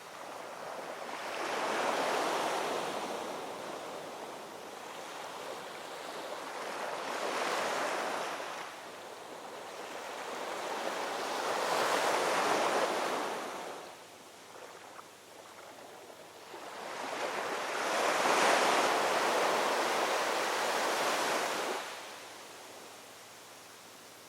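Ocean waves rolling in and washing up on a shore, four swells of surf that rise and fall about every five to six seconds, the longest near the end.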